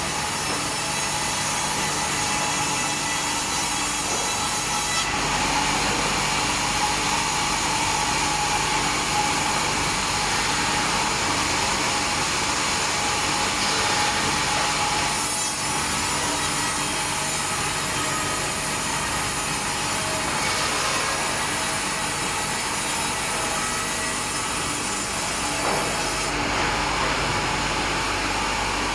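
Sawmill saw running continuously as it cuts through timber, its sound shifting a few times over the stretch.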